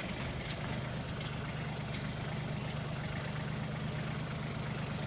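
Tractor engine running steadily at low revs, an even low hum.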